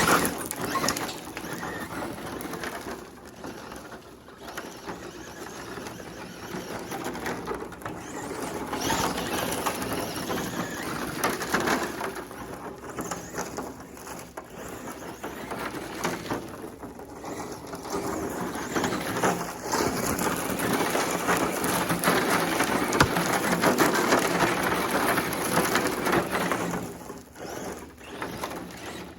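Electric RC short course truck driving on gravel, its tyres crunching and scattering loose stones in a continuous crackling noise that swells and fades as the truck moves nearer and farther.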